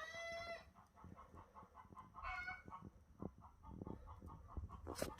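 Faint animal calls: a drawn-out pitched call at the start and another about two seconds in, with a quick run of soft ticking sounds, roughly eight a second, between them.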